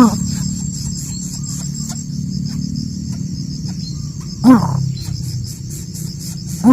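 Crickets chirring steadily over a low hum. A short, loud call that rises and falls in pitch cuts through three times: at the start, about four and a half seconds in, and at the end.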